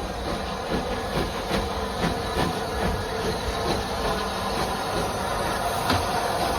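A train running on jointed track: a steady rumbling run with wheels clicking over the rail joints about two to three times a second.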